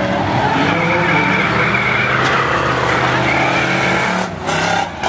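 Several demo race trucks' engines running hard around a short oval, with tyres squealing and skidding. The sound dips briefly about four seconds in.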